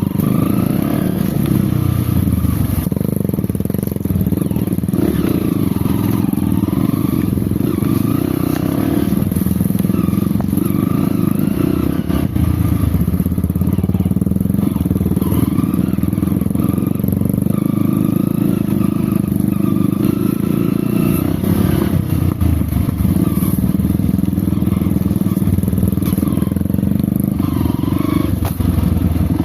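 Off-road motorcycle engine running at low, fairly steady revs, its engine speed wavering slightly up and down.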